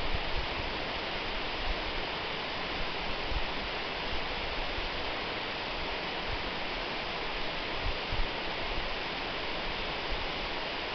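Waterfall rushing in a steady, even roar of falling water, with a few brief soft low thumps.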